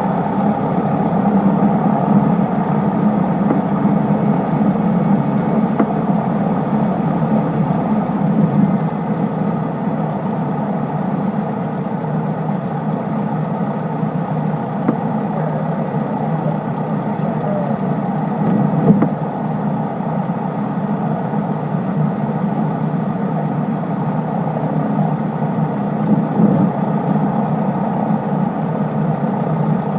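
Cessna 152's four-cylinder Lycoming engine and propeller droning steadily in flight, easing slightly about eight seconds in, with a couple of brief knocks later on.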